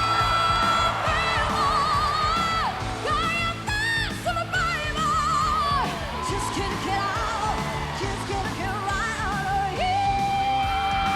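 A woman singing long, high notes with wide operatic vibrato over band accompaniment, sliding down to a lower held note near the end.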